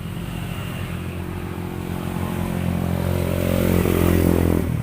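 A motor vehicle's engine running steadily and growing louder, then cutting off suddenly near the end.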